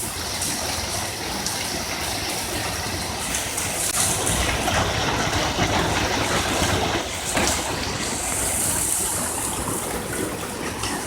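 Heavy hailstorm: a dense, steady hiss of hailstones pelting the ground and surfaces around, swelling louder for a few seconds in the middle.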